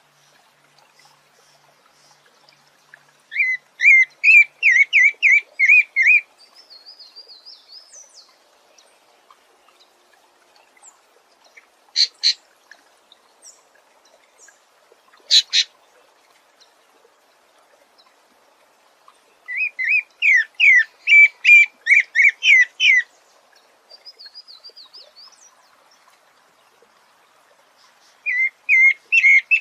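A songbird singing three loud phrases of rapid repeated whistled notes, each lasting about three seconds. A softer, higher trill follows each of the first two phrases, and two short sharp calls come between them.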